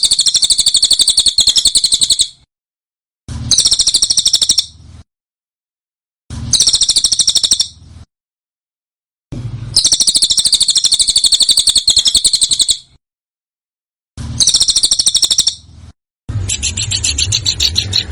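Small songbird's harsh, rapid rolling trill in short repeated bursts, each a dense run of high notes lasting a second or two, separated by abrupt dead-silent gaps. It is an edited masteran song-tutor recording. The last burst, near the end, is a lower, choppier phrase.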